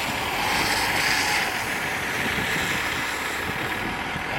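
Steady rushing static of an open two-way radio channel, keyed but carrying no voice.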